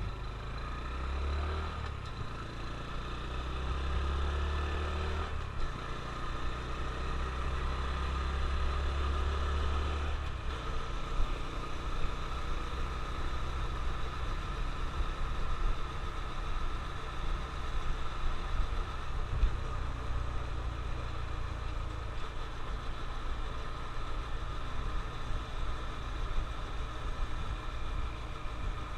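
Honda CT125 Trail's 125 cc single-cylinder four-stroke engine accelerating through the gears, its pitch climbing in about three steps over the first ten seconds, then running at a steady cruise under a rushing wind and road noise.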